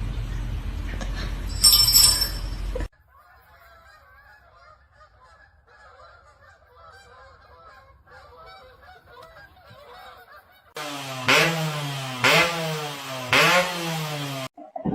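An animal calling loudly four times in a row, each call sliding up and down in pitch, near the end. It follows a steady rushing noise at the start and a faint twittering in the middle.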